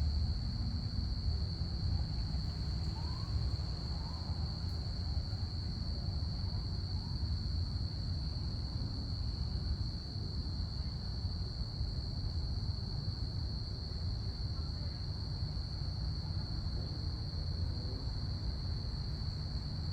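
Crickets chirping in a steady high-pitched chorus over a low, steady rumble.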